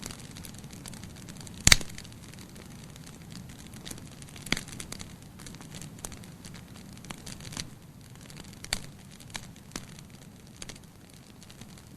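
Campfire crackling: irregular sharp pops and snaps of burning wood over a steady low hiss, with the loudest pop a little under two seconds in.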